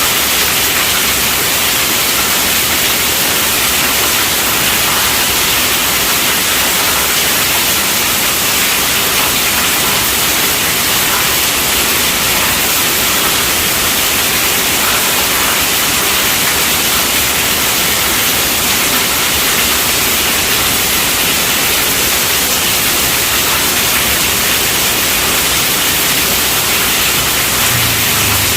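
Heavy rain drumming steadily on a tent roof, an even hiss with no breaks.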